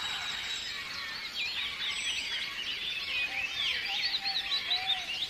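A chorus of several birds calling at once, with overlapping quick chirps and whistles that grow busier about a second in, over a steady background hiss.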